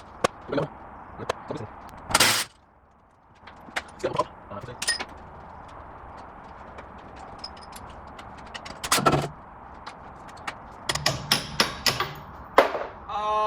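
Scattered metallic clicks, clinks and knocks of hand tools and bolts, with a louder knock about two seconds in, another about nine seconds in, and a quick run of knocks near the end.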